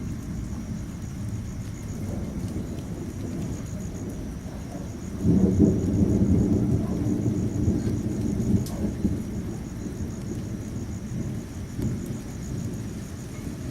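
Thunder rumbling in a thunderstorm, with rain. A louder roll of thunder starts suddenly about five seconds in and fades away slowly.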